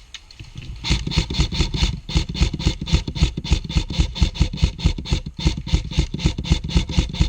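Airsoft rifle fired rapidly on semi-auto: a fast, even string of sharp shots, about six or seven a second, starting about a second in and running on for several seconds.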